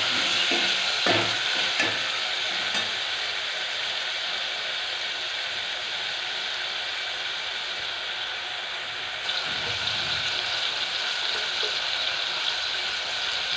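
Chopped tomatoes frying in hot mustard oil with onions in an aluminium pot: a steady sizzle as they cook down for the tadka. A metal ladle scrapes and knocks the pot a few times in the first couple of seconds.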